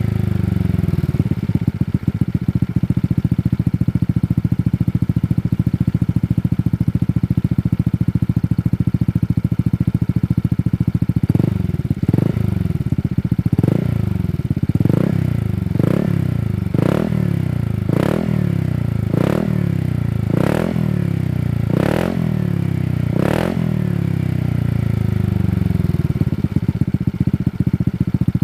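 Honda Vario 160 scooter's single-cylinder engine through a Shijiro Opel 1 aftermarket racing exhaust, idling steadily. About halfway in it is revved in a series of about ten quick throttle blips, each a little over a second apart, then settles back to idle near the end.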